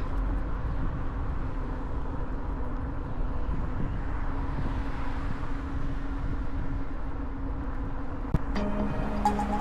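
Fat-tire e-bike riding: a steady tire and motor hum with a low rumble underneath.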